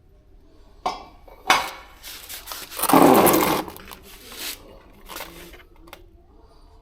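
Hard objects being handled and knocked together: two sharp knocks, then scraping and rustling with a loud, short rush of noise about three seconds in.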